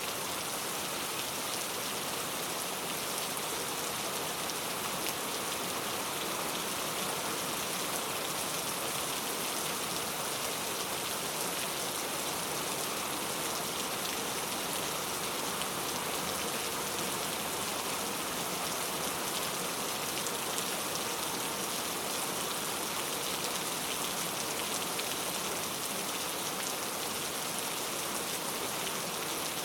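Steady rain falling, a dense even hiss of drops pattering on surfaces with no let-up.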